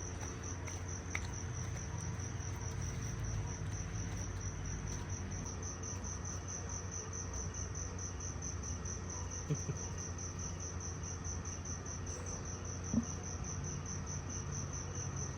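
Crickets chirping at night in a steady, high, evenly pulsing trill, over a low rumble. There are two small knocks, about nine and a half and thirteen seconds in.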